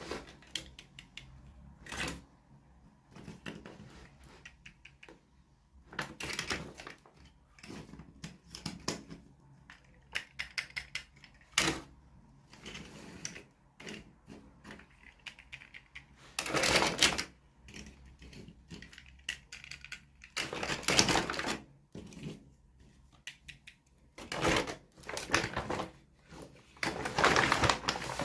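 Plastic toy packaging and small toy pieces being handled: irregular clicks and taps, with several longer rustling bursts of about a second each.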